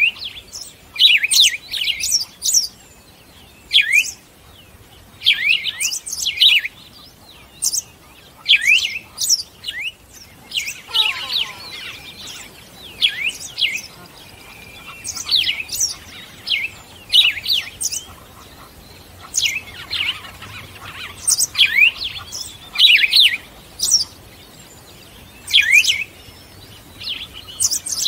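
Small birds chirping: short, sharp chirps that fall in pitch, coming in quick clusters every second or two.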